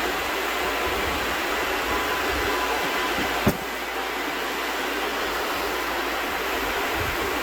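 Steady mechanical rushing noise, with one sharp click about halfway through.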